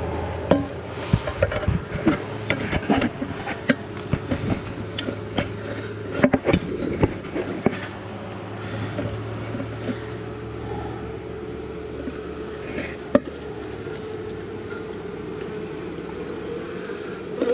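Honeybees buzzing steadily, with irregular knocks and clicks of tools and comb being handled during a hive cutout; the clatter thins out after about eight seconds, leaving mostly the hum.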